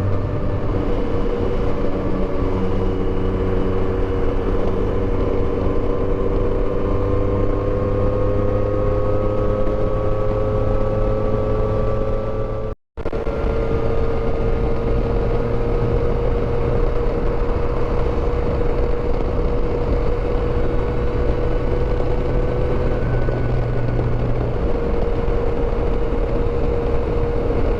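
Yamaha Tracer motorcycle engine running at highway cruising speed, under a steady rush of riding noise. Its note climbs slowly in pitch over the first dozen seconds, drops out for a moment, then holds steady.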